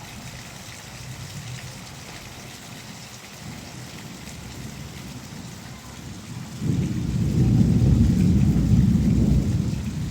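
Rain falling steadily, then a loud low rumble of thunder rolls in about two-thirds of the way through.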